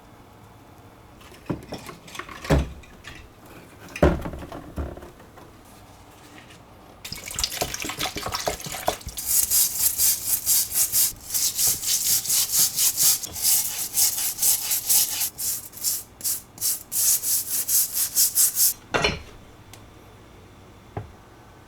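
A few knocks as metal parts are handled, then a long run of rapid back-and-forth scrubbing strokes, about four a second, on meat-chopper parts being cleaned of rust. A last knock follows near the end.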